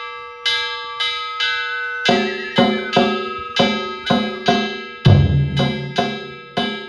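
Kishiwada danjiri narimono ensemble: small hand gongs (kane) struck in a steady rhythm about twice a second and left ringing, over a held shinobue flute melody in the first two seconds. A deep drum joins with a loud hit about five seconds in.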